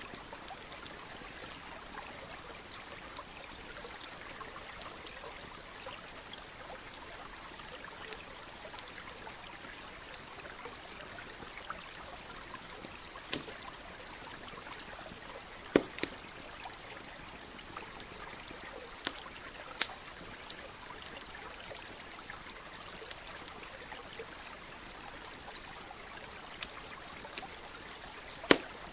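Steady trickle of a stream with the scattered sharp pops and crackles of a campfire; the loudest pops come a little past halfway and just before the end.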